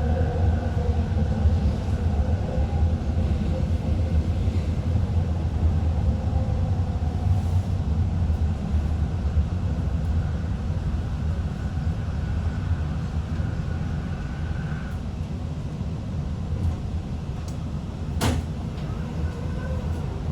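Sky train running, a steady low rumble inside the car with a faint electric motor whine that fades out past the middle. A single sharp click near the end.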